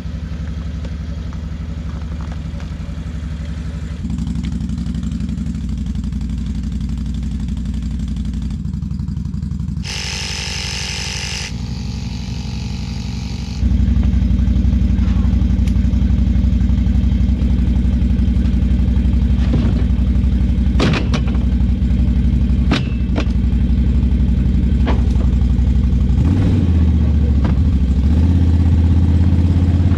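Small vehicle engine running steadily, heard in several cut-together stretches; it gets louder and closer from about fourteen seconds in.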